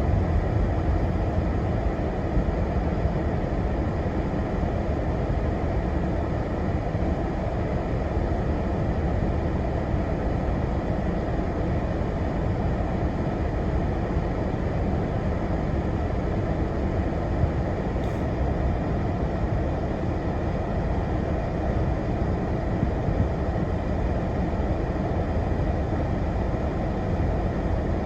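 Steady road and engine noise heard inside a moving car's cabin, a low even rumble with no change in speed.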